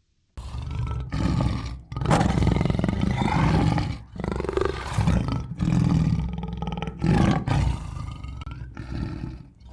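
A large animal giving a series of deep, rough roaring calls, each a second or two long, with short breaks between them.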